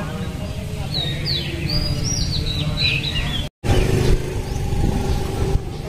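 Small birds chirping in a quick flurry of short, gliding calls for about two seconds, over a steady low rumble of wind on the microphone. The sound cuts out for an instant just past halfway.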